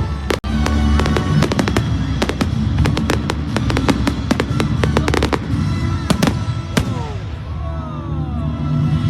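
Fireworks crackling: a rapid run of sharp cracks and pops for about seven seconds that thins out near the end, with music playing underneath.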